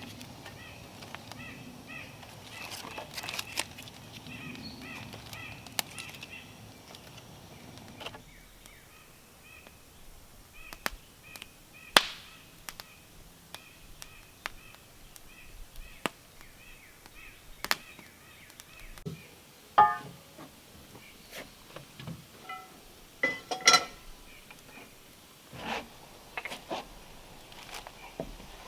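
Scattered sharp knocks and taps at irregular intervals, the loudest about 12, 20 and 23 seconds in, consistent with timber being handled and worked with hand tools. Behind them runs a faint, steady, evenly repeating chirping. Soft background music fades out in the first several seconds.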